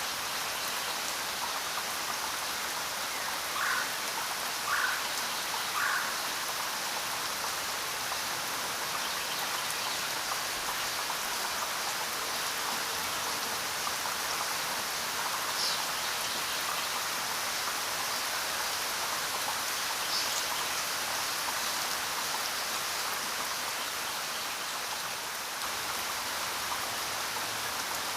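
Steady rainfall, an even hiss of rain with no let-up, with three short louder sounds about four to six seconds in.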